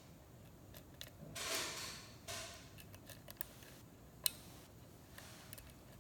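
Lock pick working the pins inside a Schlage-style lock cylinder: scattered small metallic clicks and short scrapes. The longest scrape comes about a second and a half in, and the sharpest click just after four seconds.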